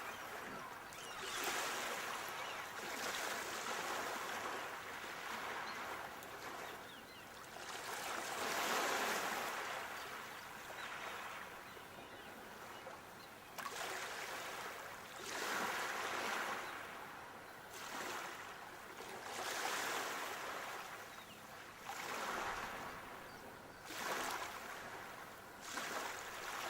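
Sea waves breaking and washing onto the shore, each wave swelling into a hiss of surf and falling away, one after another every few seconds.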